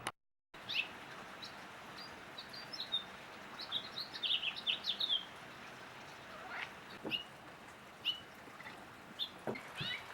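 Small birds chirping: many short, high chirps, coming thick about four to five seconds in and scattered otherwise, over a faint outdoor hiss.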